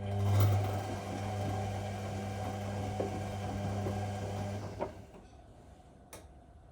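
Whirlpool 1400 washing machine's motor turning the drum during the wash, a steady hum with the tumbling of the load, stopping about five seconds in. A single click follows about a second later.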